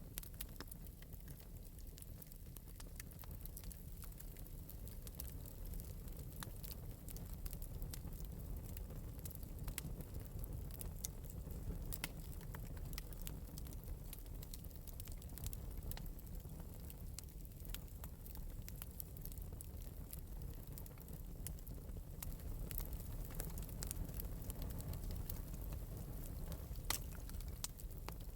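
Wood fire burning in an open metal fireplace, with light, irregular crackles and pops over a steady low rumble.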